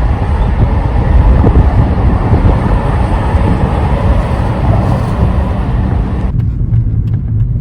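A moving car: steady road rumble with wind noise on the microphone. About six seconds in the sound changes abruptly to a duller, quieter low rumble.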